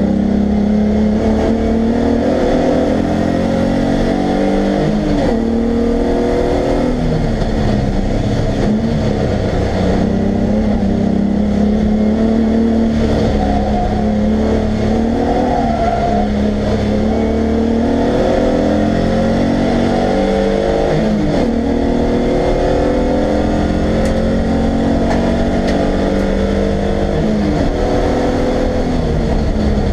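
Race car's engine heard from inside the cabin while it is driven hard on track. Its pitch rises and falls through the corners with a few brief dips, then climbs under full throttle onto a straight near the end.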